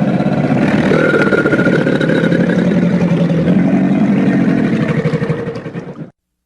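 Crocodile growl sound effect: a long, loud, rumbling growl with a fast pulsing texture, fading and stopping about six seconds in.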